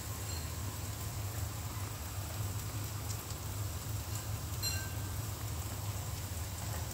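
Chili spice paste frying gently in oil in a wok over a gas flame, left unstirred: a steady soft crackle over a low hum.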